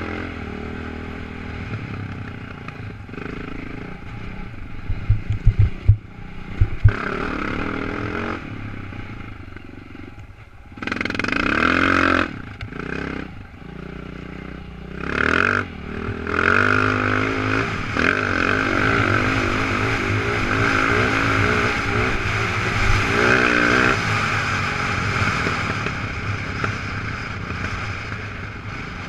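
Dirt bike engine heard from the rider's own bike, its revs rising and falling as it rides over a gravel trail. A few sharp knocks come about five to seven seconds in.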